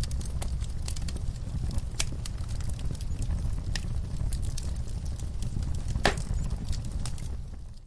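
Log fire crackling over a steady low rumble, with scattered sharp pops and snaps, the loudest about six seconds in. The sound fades away near the end.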